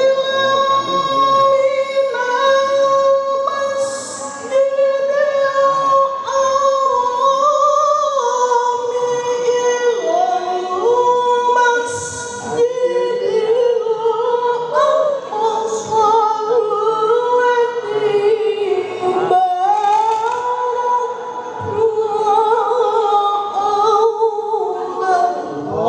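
A single high voice reciting the Quran in melodic tilawah style, holding long ornamented notes that slide from pitch to pitch, with brief breaths between phrases.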